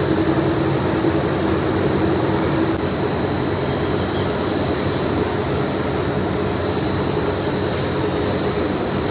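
Factory machinery running steadily, with a thin high whine throughout and a lower hum that stops about three seconds in.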